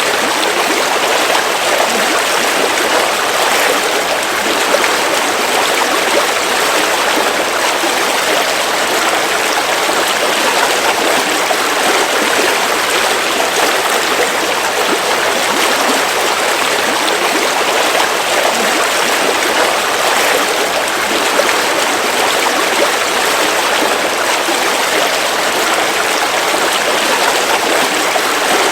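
River water flowing steadily over rocks: an even, unbroken rush of moving water.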